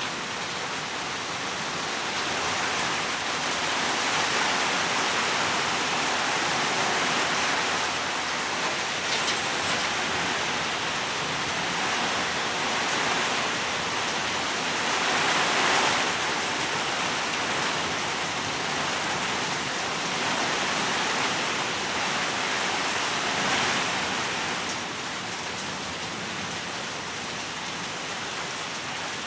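Heavy rain pouring down in a steady hiss, swelling louder a few times and easing slightly near the end.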